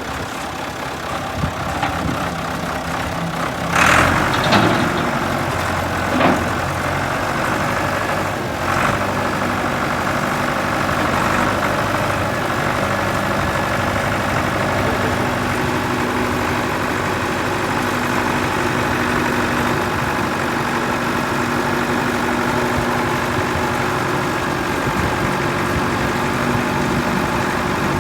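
Allis-Chalmers 6060 tractor engine idling steadily, with a few short knocks about four and six seconds in.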